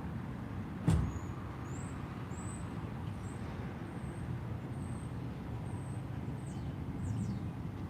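Low steady rumble of a car, with one sharp knock about a second in and faint short high chirps.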